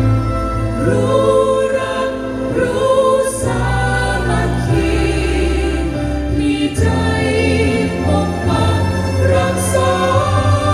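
Background music: a choir singing sustained, shifting chords over a steady low bass.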